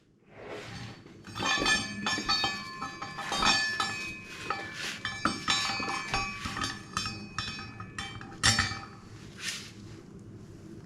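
Loose metal parts clinking and rattling with short ringing notes as brake hardware is handled, with a louder knock about eight seconds in.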